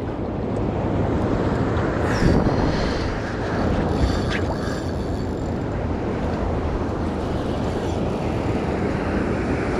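Steady wind rush on the microphone over sea noise, with a couple of faint ticks about two and four seconds in.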